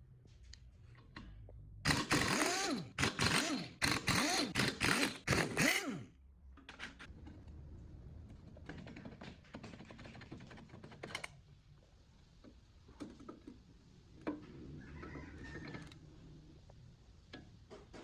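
Hand work on metal compressor parts: about four seconds of loud, rapid scraping strokes with a squeal that rises and falls, followed by quieter clicks, knocks and light scraping.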